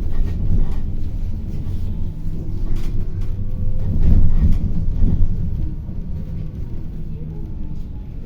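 A city bus in motion, heard from inside among the passengers: a steady low rumble of the drivetrain and road, with faint gliding motor tones. It swells for a moment about halfway through.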